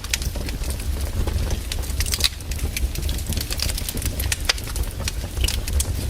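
Firewood burning, crackling, with many sharp irregular pops over a steady low rumble.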